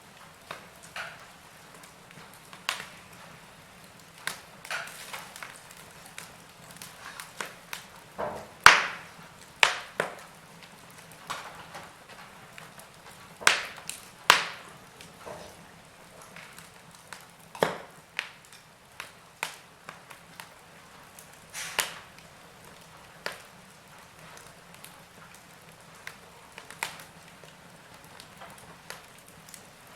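Wood fire crackling: irregular snaps and pops over a soft steady hiss, with a few louder pops about nine and fourteen seconds in.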